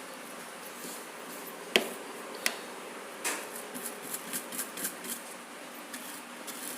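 Short scrubbing and rubbing strokes on the plastic of a washing machine as the last dirt is cleaned off, with two sharp taps about two seconds in and a quick run of strokes a little after three seconds.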